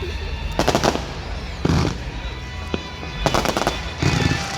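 Fireworks going off in four clusters of sharp bangs and crackles, a second or so apart.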